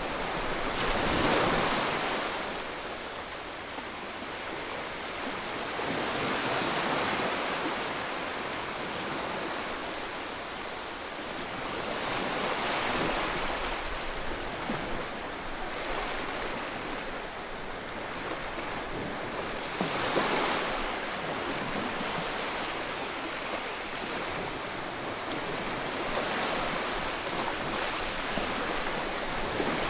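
Ocean surf: waves breaking and washing in, a steady rushing that swells to a louder crash about every six to seven seconds.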